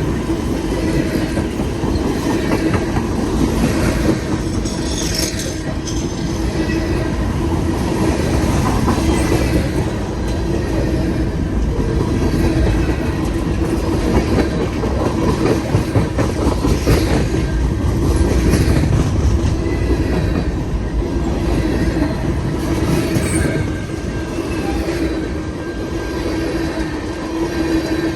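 Freight cars of a mixed freight train rolling past, wheels rumbling steadily on the rails, with a few brief high squeals.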